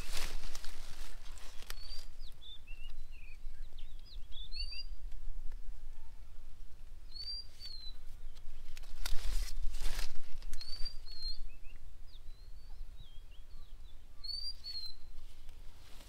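Small birds chirping in short, quick calls that repeat throughout, over a low steady rumble, with a few brief rustling noises, the loudest about two-thirds of the way through.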